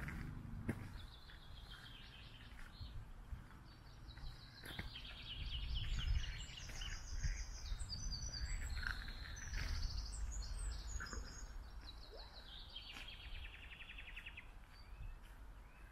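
A songbird singing a long song of rapid, high trills and twittering notes, over a steady low rumble.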